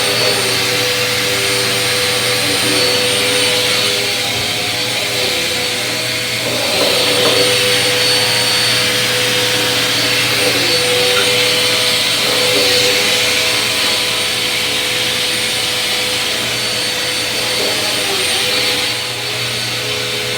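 Bissell vacuum cleaner running steadily over the floor: a constant motor whine and airflow hiss. The pitch and loudness shift slightly every few seconds as it is worked back and forth.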